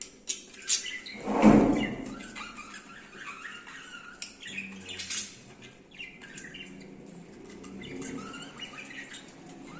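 Small birds chirping and twittering in short, scattered calls, with a loud rustle about a second and a half in.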